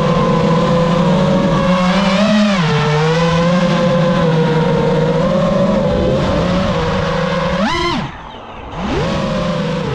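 Brushless motors and propellers of a 5-inch freestyle FPV quadcopter whining steadily, heard through the onboard GoPro, the pitch wavering with throttle. Nearly eight seconds in the whine swells up in pitch, then the throttle is chopped and the motors drop low for under a second before spooling back up.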